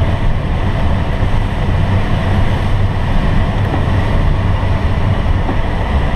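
Steady, loud rush of air inside a glider cockpit during an aerotow behind a tow plane, with low buffeting wind noise on the microphone.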